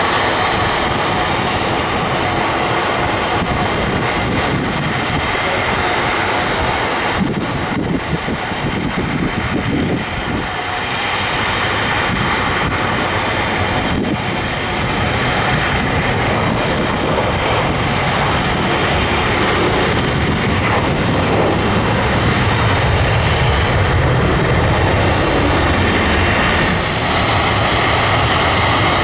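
Boeing 747-400 jet engines running, a loud steady rush of jet noise. The deep rumble builds over the second half.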